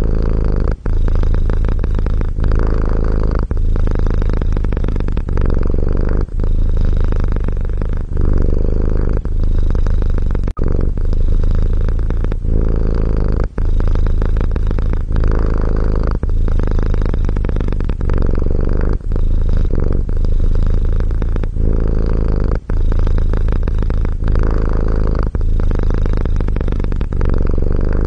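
Domestic cat purring steadily, the low rumble breaking briefly every second or two as it switches between breathing in and breathing out.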